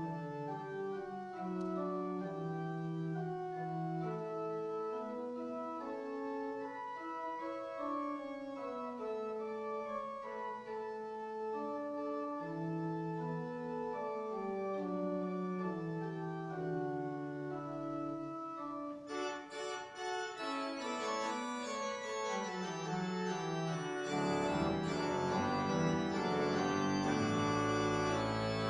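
Church organ playing the closing postlude in slow, sustained chords. About two-thirds of the way through it suddenly turns brighter and fuller, and a few seconds later deep bass notes come in and it grows louder.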